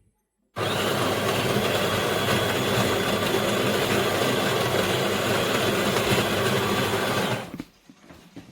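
The built-in burr grinder of a De'Longhi Dinamica Plus bean-to-cup coffee machine grinding beans. It starts abruptly about half a second in, runs loud and steady for about seven seconds, then stops.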